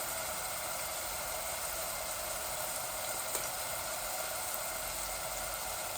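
Steady sizzle of onions, ginger and garlic frying in oil in a cooking pot, half-cooked.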